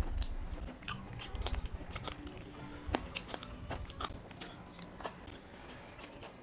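Close-up mouth sounds of a man chewing a handful of mutton liver curry and rice eaten by hand, with wet smacks and clicks coming irregularly.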